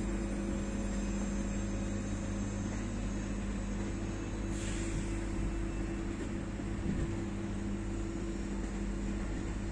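Trains idling and moving in a railway station: a steady low mechanical hum with two constant droning tones and a rumble underneath. There is one brief hiss about four and a half seconds in.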